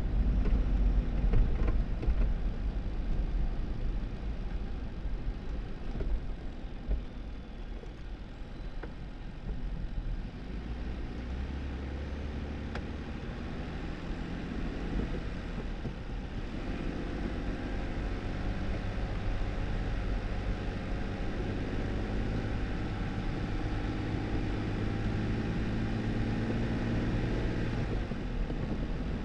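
2018 Jeep Wrangler driving on a snowy back road: steady engine and tyre rumble, loudest and bumpiest in the first couple of seconds. In the second half the engine note comes through more clearly and rises slowly.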